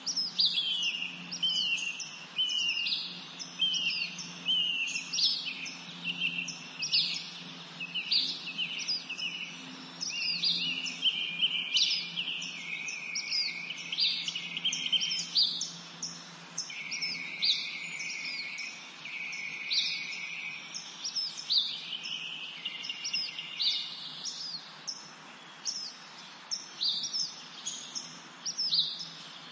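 Birds chirping: a dense, continuous run of short, quick chirps, many falling in pitch, several birds overlapping.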